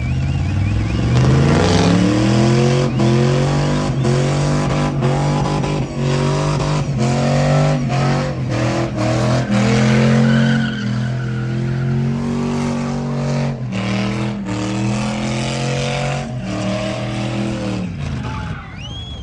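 Truck engine revving up over the first couple of seconds, then held at high revs with small rises and falls, with repeated sharp cracks through it.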